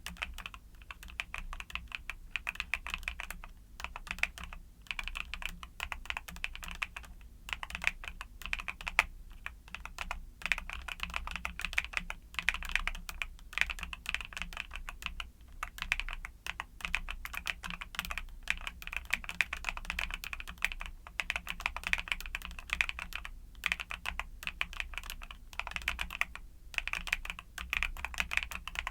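Continuous fast typing on a YUNZII mechanical keyboard with Cocoa Cream switches: a dense run of keystroke clacks, broken by short pauses every few seconds.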